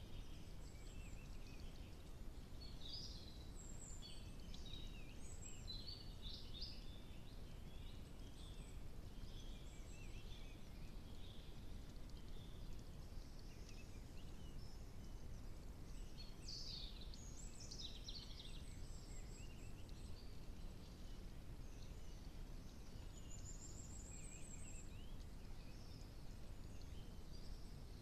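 Birds chirping in scattered bursts, high and faint, over a steady low background hiss.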